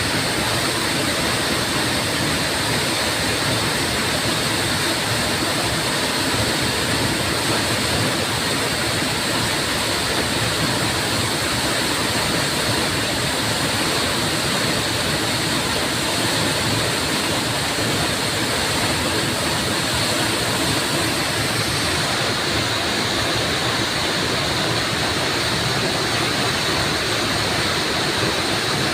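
Waterfall splashing and rushing steadily, a constant dense roar of falling water.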